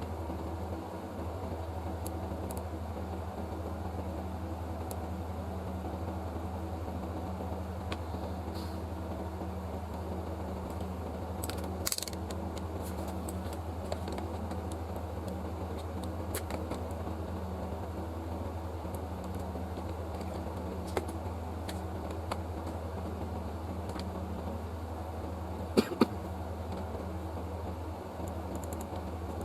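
Steady low mechanical hum of workbench equipment, with a few light clicks and taps, including a louder double click near the end.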